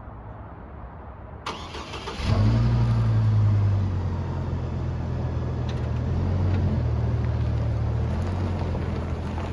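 A click, then a truck engine starting about two seconds in, running briefly at a higher, louder idle before settling into a steady idle.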